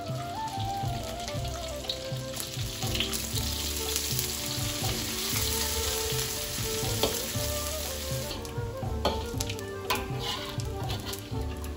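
Dried anchovies sizzling as they deep-fry in hot oil in a wok, the hiss strongest in the middle. A metal spatula and ladle scrape and clack against the wok near the end, over soft background music.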